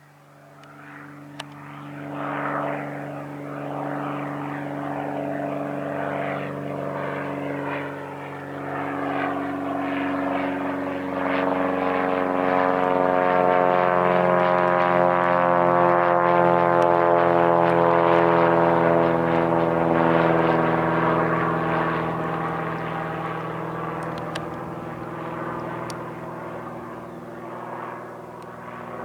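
Reims Cessna F182P Skylane's six-cylinder Continental O-470 engine and propeller running at high power as the plane passes. It grows from faint to loud, peaks a little past the middle, then slowly fades.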